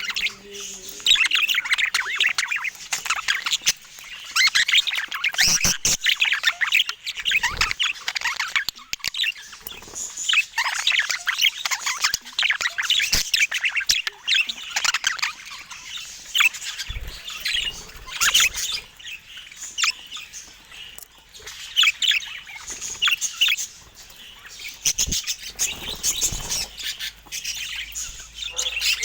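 Budgerigars chattering continuously, a busy run of fast chirps, squawks and warbles, with a few sharp clicks in between.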